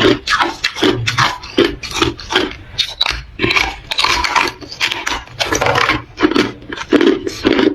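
Hard ice being bitten and chewed close to the microphone: a quick, steady run of loud, crisp crunches, about three or four a second.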